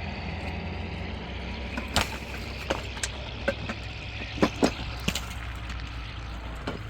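Tractor engine idling steadily, with a handful of sharp knocks and clinks about two to five seconds in.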